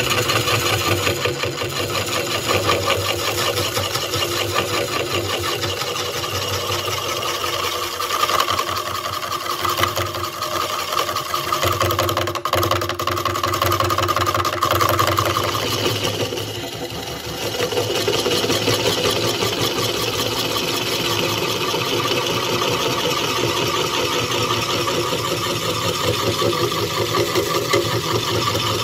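An electric power-tool motor running steadily, switching on abruptly out of silence, with a brief dip in level about two-thirds of the way through.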